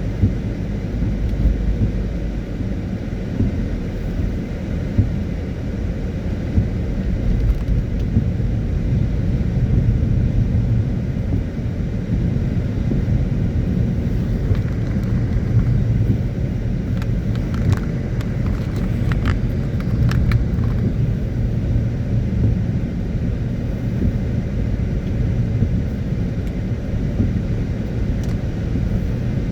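Car driving in the rain: a steady low rumble of engine and tyres on the road, with a few faint short ticks a little past halfway.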